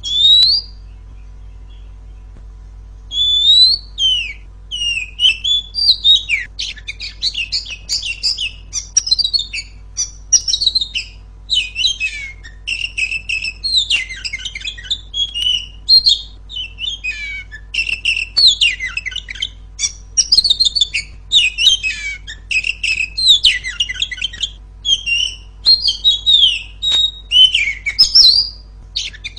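Oriental magpie-robin, billed as a female, singing loudly: one short call right at the start, then after a pause of about three seconds a fast, near-unbroken stream of varied chirps and whistles. A faint steady hum lies underneath.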